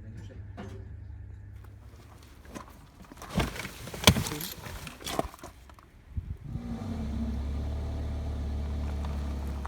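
A few sharp knocks and clatters, then a vehicle engine starts about six and a half seconds in and runs with a steady low rumble.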